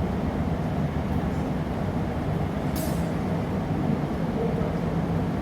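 Steady low rumble of a glassblowing studio's gas-fired furnace and glory hole burners running, with a single brief sharp tick about three seconds in.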